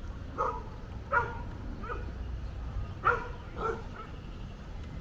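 A dog barking, five short barks at uneven spacing, over a steady low rumble.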